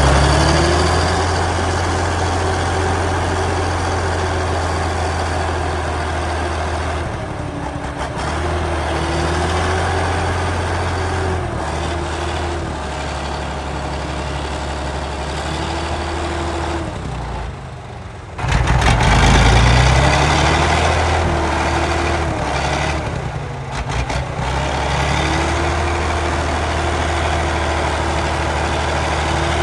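Heavy truck engine running, with its pitch shifting slightly from moment to moment and a louder surge of revving a little past the middle.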